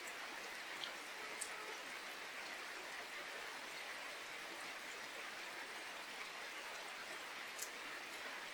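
Steady rain falling: an even hiss with a few sharp ticks of single drops, two in the first couple of seconds and one near the end.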